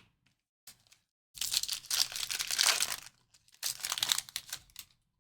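Foil trading-card pack wrapper being torn open and crinkled in two long rustling stretches, with a short click just before.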